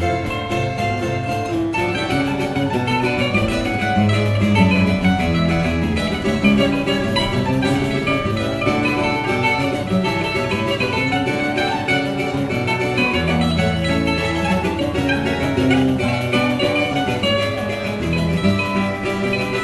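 A choro ensemble playing an instrumental piece led by plucked strings, with moving bass notes underneath.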